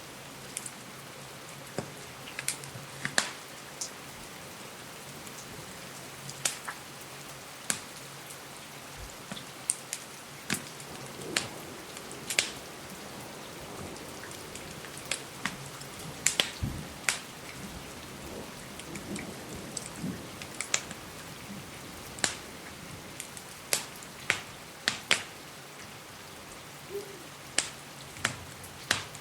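Steady rain hiss with irregular sharp crackles and pops from a wood fire, a few dozen scattered through it.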